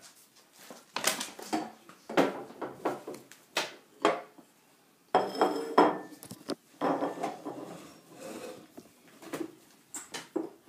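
A plate clattering and knocking against a table as a toddler handles it: a string of irregular sharp clinks and knocks, with a brief ringing clatter about five seconds in.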